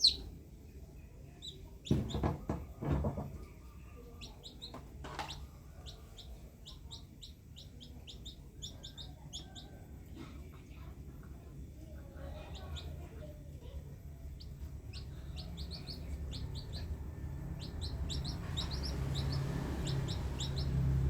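Small birds chirping in short, repeated high calls, over a low steady rumble that grows louder near the end. A few loud knocks come about two seconds in.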